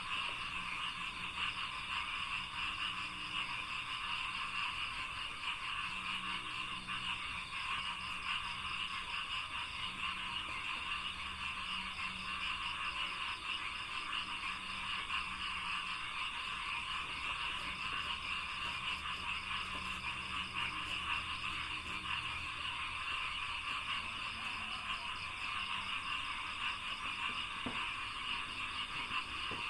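Frogs croaking in a dense, steady chorus, with a faster pulsing trill above it.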